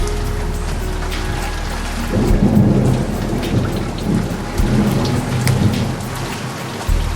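Steady rain with a long roll of thunder rumbling in from about two seconds in and dying away about four seconds later. A few held saxophone notes sound at the start.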